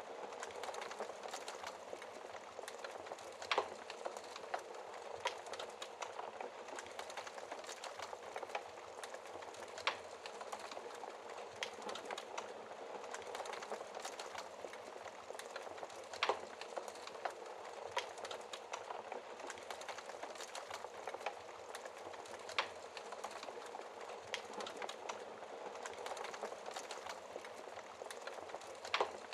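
Wood fire crackling, with irregular sharp pops from burning logs, over a steady hiss of rain. A few louder snaps stand out, about three and a half seconds in, around the middle, and near the end.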